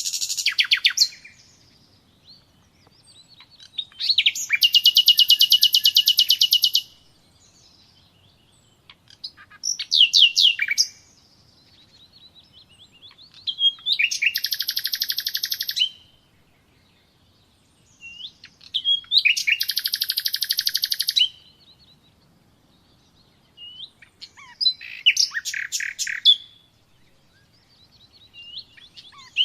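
A songbird singing: about six loud song phrases, each a short lead-in followed by a fast, even trill lasting two to three seconds, repeated roughly every five seconds with quiet pauses between.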